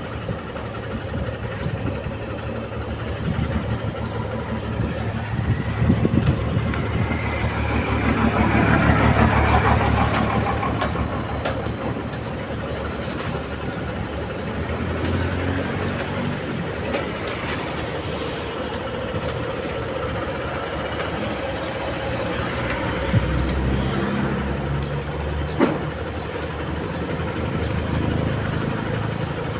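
Steady engine and road noise of a vehicle being driven through traffic, with another vehicle passing louder about eight to ten seconds in and two short knocks later on.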